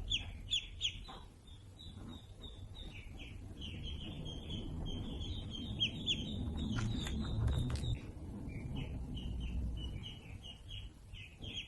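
Small birds chirping: many short, high chirps repeating in quick succession, over a low rumble, with a few clicks about halfway through.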